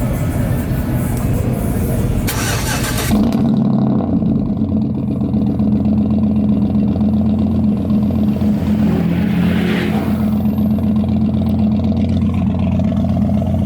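Truck engine running loud, with a short hard burst about two to three seconds in, then settling into a steady low idle.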